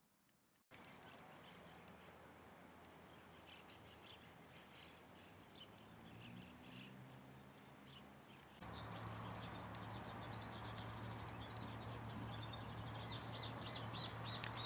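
Small birds chirping over steady background noise. About nine seconds in, the background gets louder with a low steady hum, and the chirps come thicker until the sound cuts off suddenly.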